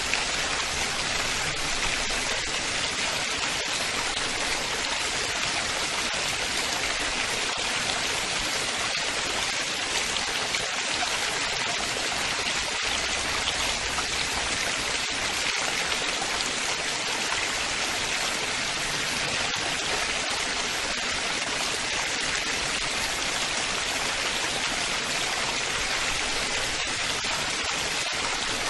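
Running water splashing and babbling steadily, an even, unbroken hiss with no change in level.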